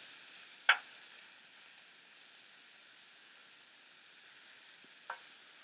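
Raw cubed chicken sizzling in rendered bacon fat on a hot Blackstone flat-top griddle, a steady sizzle. Two short clicks of metal spatulas on the griddle come through it, the louder about a second in and another near the end.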